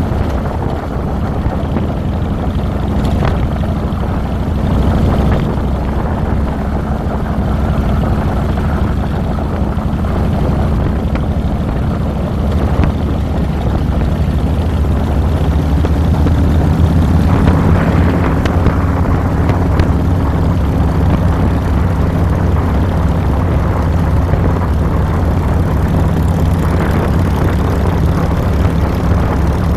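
The V-twin engine of a 2007 Harley-Davidson Fat Boy running steadily while riding, heard close up from the handlebars. Its pitch pattern shifts a little about halfway through.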